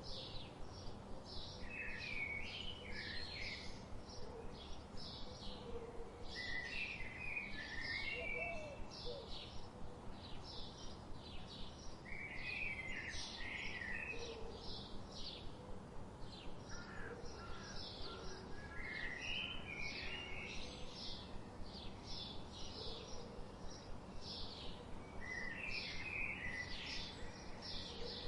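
Birds chirping: one bird gives a steady run of short high chirps, about two a second, while another bird's lower, busier phrases come in every five or six seconds, over a steady background hiss.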